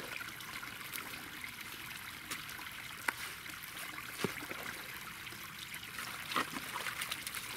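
Water trickling steadily, with a few light knocks.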